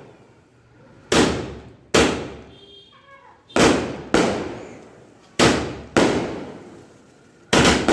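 Chidambaram Fireworks 60-shot repeater cake firing its shots one after another: eight loud bangs, mostly in pairs, each trailing off in a fading rumble.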